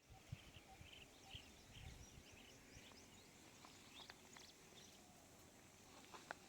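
Near silence: faint outdoor ambience with distant bird chirps in the first couple of seconds and a few light ticks.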